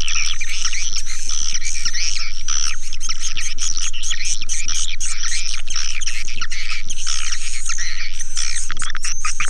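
Swiftlet calls: a dense, continuous chorus of chirps, rapid clicks and short twittering trills, over a steady low hum.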